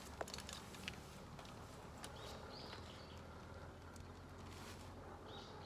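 Faint outdoor ambience: a bird gives a short, high call about every three seconds over a steady low electrical hum from a high-voltage transmission tower, with a few light clicks.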